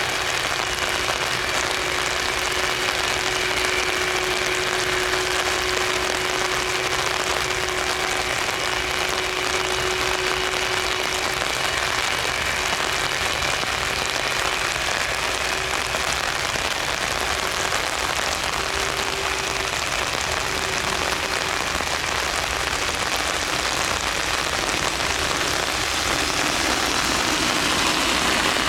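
Jet engines of a Boeing 747-400F freighter running at taxi power: a steady hiss with a steady whine, growing slightly louder near the end.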